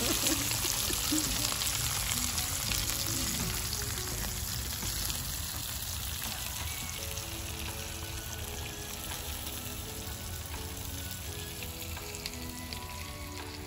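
Bacon and marinated beef sizzling on a tabletop Korean BBQ grill pan, a steady frying hiss that slowly fades. Soft background music with a simple melody comes in about halfway through.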